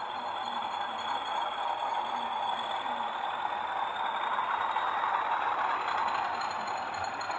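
Sound-fitted model LMS 10000 diesel locomotive running, its Zimo sound decoder playing a steady diesel engine sound through the model's speaker, with a faint high whine that rises slightly.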